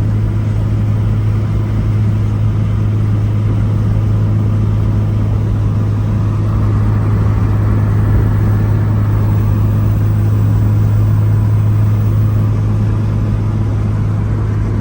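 A car engine and road noise while driving at a steady speed: an even drone that swells a little partway through.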